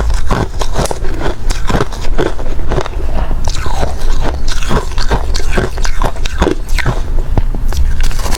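Close-miked crunching of hard ice being bitten and chewed: a quick, irregular run of sharp cracks and crunches with no pause.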